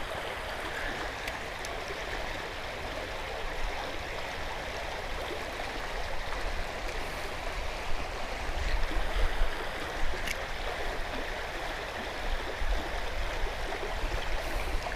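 Shallow creek water running over rocks, a steady rushing babble, with irregular low bumps on the microphone in the second half.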